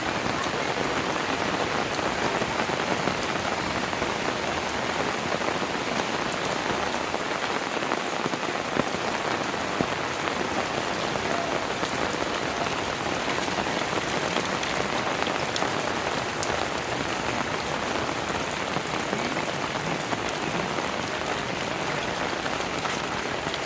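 Steady rain falling on surfaces, an even hiss.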